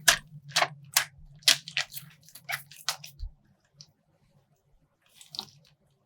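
Slime-filled plastic bag being squeezed and torn open: a quick run of sharp, crisp crunches and crackles for about three seconds, then one faint crackle near the end.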